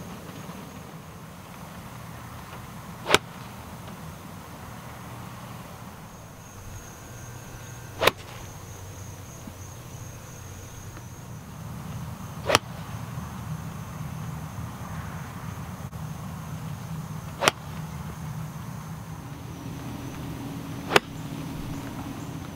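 Five sharp cracks of golf clubs striking balls, one every four to five seconds, over a steady hiss of falling rain.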